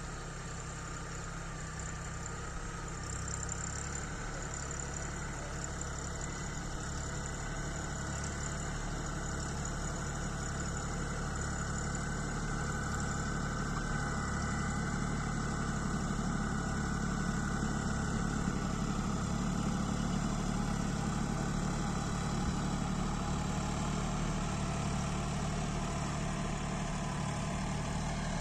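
Farmtrac Atom 26 hp 4WD mini tractor's engine running steadily, slowly growing louder.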